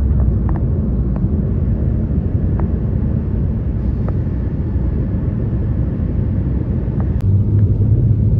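Steady low rumble of a car's road and engine noise, heard from inside the cabin while driving, with a few faint ticks.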